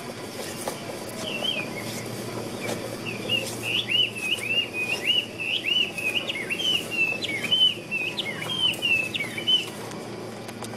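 A songbird singing a fast run of short, high chirping notes that starts about a second in and stops near the end, over a steady low background noise.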